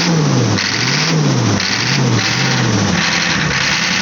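Ford 6.9 IDI diesel V8 running and revving up and down about once a second, four times, then settling to a steady idle near the end. It is running rough on its first start after sitting seven years.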